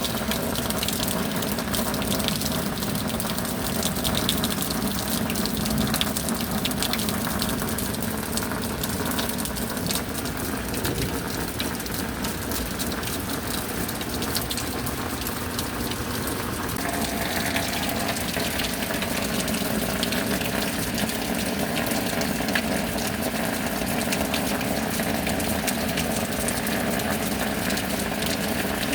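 Steady rain with water gushing and running, unbroken throughout; its tone shifts slightly a little over halfway through.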